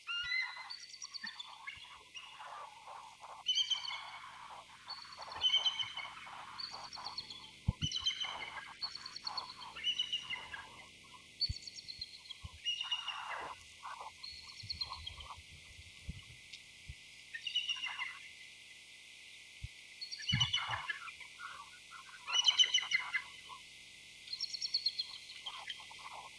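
A pair of bald eagles calling to each other: bursts of high, thin chittering, each a quick string of short piping notes, repeating about every two seconds with a short pause past the middle.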